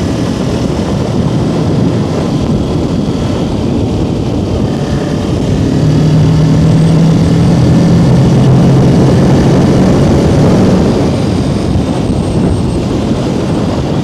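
Kawasaki Ninja 650's parallel-twin engine running while riding, with wind rushing over the microphone. For about five seconds in the middle the engine note gets louder and holds a steady pitch, then drops back.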